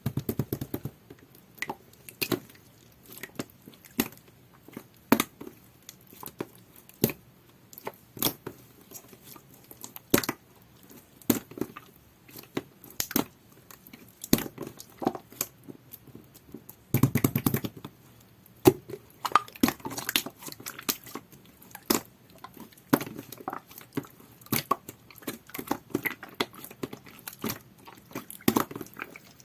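Clear jelly-textured slime with stickers mixed in being squeezed and pressed by hand: an irregular run of sticky pops, clicks and crinkles, with denser spells of crackling at the start and a little past halfway.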